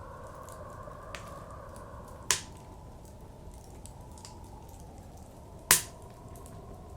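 Wood fire crackling with small snaps and two loud pops, about two seconds in and again near six seconds, over a steady blizzard wind.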